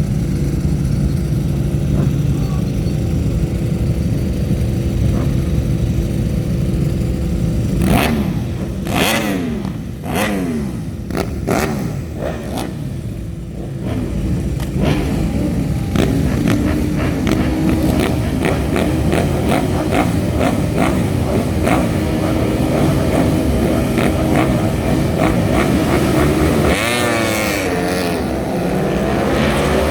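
A grid of superbike racing motorcycles: engines held at high revs for several seconds, then about eight seconds in the bikes launch and accelerate away, each engine rising in pitch through the gears one after another. More bikes keep coming through, with one passing close near the end.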